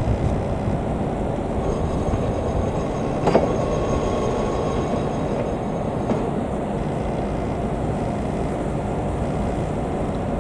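A JR Kyushu electric train running on the rails, a steady rumble with a single sharp click about three seconds in.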